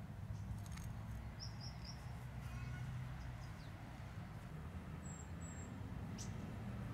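Garden ambience: a low steady rumble with a few short high bird chirps, a quick run of three notes about a second and a half in and two higher notes about five seconds in, and a couple of faint clicks.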